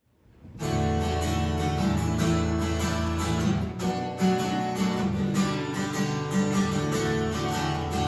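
Instrumental music led by a strummed acoustic guitar in a steady rhythm, fading in over the first second.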